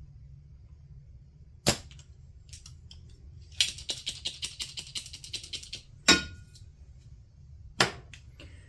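Desoldering work on a range control board: three sharp snapping clicks, with about two seconds of rapid scratchy, crackling hiss between the second and third.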